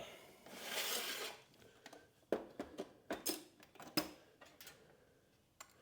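A short scraping rustle, then a run of light metallic clicks and knocks: hand tools or small metal parts being handled.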